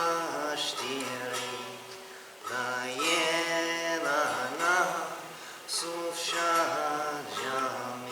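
A man singing a Greek folk song in the Vallahades dialect of Macedonian Greek, in long ornamented phrases with wavering pitch, pausing briefly for breath twice.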